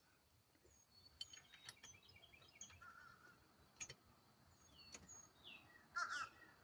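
Faint birds chirping, with a few light metallic clicks and taps from bolts being handled and started by hand. The loudest sound is a short warbled chirp near the end.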